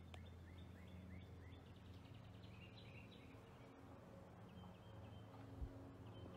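Faint small-bird chirping: a quick run of short rising chirps over the first three seconds and a few more later, over a low steady background hum. One brief low bump about five and a half seconds in.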